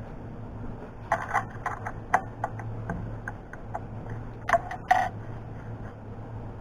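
Sharp metal clicks and clanks of a collet wrench working a milling machine's collet to release the workpiece, a dozen or so irregular ticks over about four seconds with a louder pair near the end, over a steady low hum.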